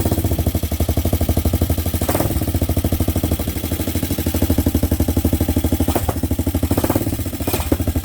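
Hawk 250 motorcycle's single-cylinder four-stroke engine running steadily on choke just after its first start, with an even, rapid firing pulse. The owner judges it in need of tuning and a carburettor adjustment.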